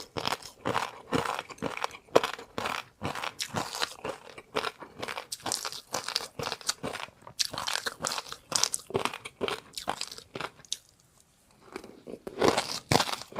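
Close-miked eating: a person chewing something crunchy, a rapid irregular run of crisp crunches, with a pause of about a second near the end before the crunching resumes.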